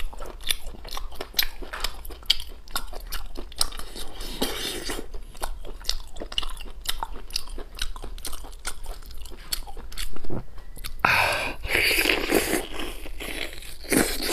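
Close-miked biting and chewing on boiled beef rib meat torn from the bone: many short wet clicks and smacks, the meat tough and needing hard biting. A louder rush of mouth noise comes about eleven seconds in.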